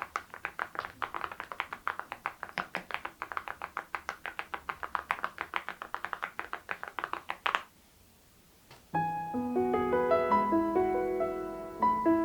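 Fast typing on an Adelie mechanical keyboard fitted with Cerakey ceramic keycaps, a quick, steady run of sharp clacks. The typing stops about seven and a half seconds in, and after a short pause piano music begins.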